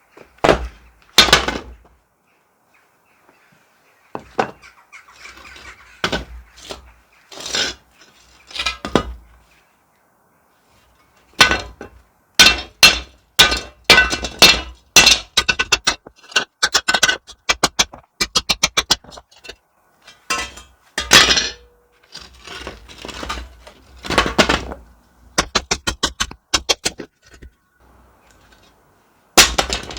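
Work on an old metal wood stove: repeated sharp knocks and clinks on metal, coming in runs of quick strikes with short pauses between them.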